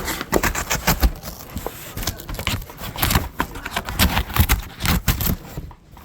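Cardboard shipping box being opened by hand: a dense, irregular run of scraping, crackling and rustling of cardboard and packing.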